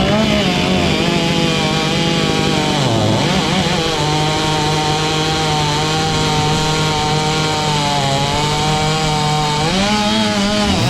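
Husqvarna 500i two-stroke chainsaw at high revs, cutting through wood. Its pitch sags briefly about three seconds in, holds steady under load, and rises again near the end.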